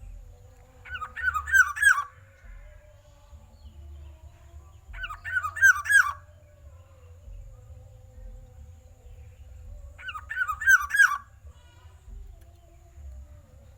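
Black-naped oriole (kepodang) calling: three loud bursts a few seconds apart, each a quick run of about five looping whistled notes.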